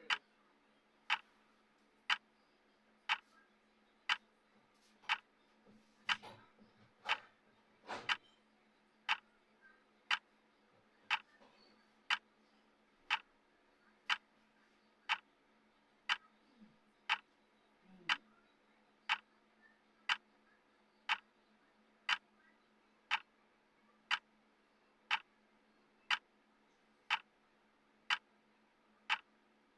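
Clock ticking steadily, one sharp tick each second: the timer's tick sound counting down.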